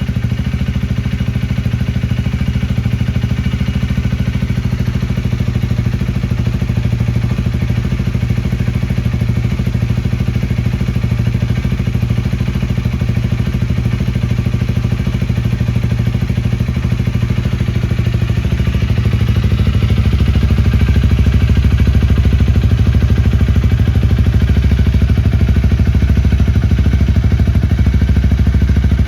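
Honda Rebel 250's single-cylinder engine idling steadily through an aftermarket Moriwaki muffler, getting a little louder about two-thirds of the way in.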